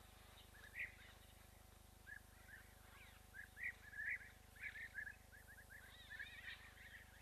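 Birds chirping: a run of short, quick calls that grows busier from about two seconds in, over a faint steady background.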